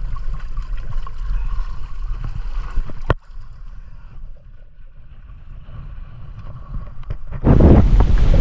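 Sailboat underway with water rushing and gurgling along the hull over a low rumble; it cuts off abruptly about three seconds in to a quieter stretch. Near the end, loud wind buffeting the microphone comes in suddenly.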